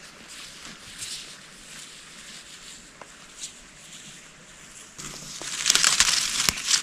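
Rustling and crunching of dry vegetation, soft and scattered at first, then a loud, dense crunching crackle over the last two seconds.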